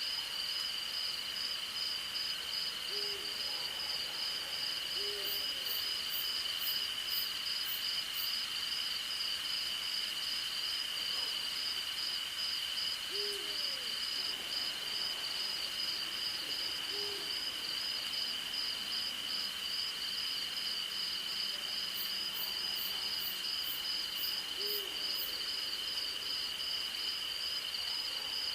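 Night insect chorus of crickets: a steady high trill under a pulsing, higher chirring. An owl gives single short hoots, five in all, a few seconds apart, and twice a quick run of very high ticks comes in.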